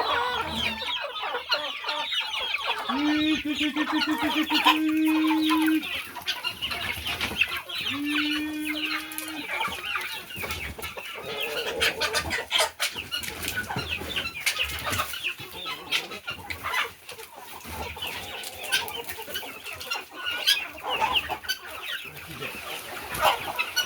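A flock of chickens clucking steadily, with two long, level calls a few seconds in, the first about three seconds long and the second about a second and a half.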